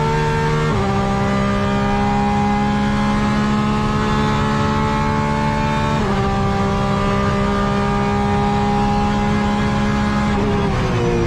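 Porsche 911 RSR GTE race car's flat-six engine at full throttle, heard from the cockpit. The engine pitch climbs through the gears, with sharp upshifts about a second in and about six seconds in. Near the end the pitch falls away as the car lifts off and slows.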